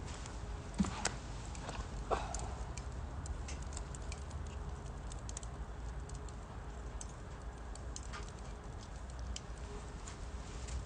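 Wood fire crackling in a UNIFLAME Nature Stove Large fire pit, with irregular sharp pops and ticks over a low rumble. Two louder knocks come about one and two seconds in.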